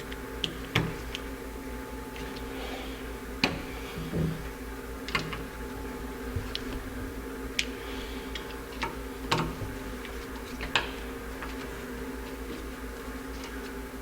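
Sharp, irregular clicks and taps of small metal carburetor parts and hand tools being handled during reassembly, over a steady background hum.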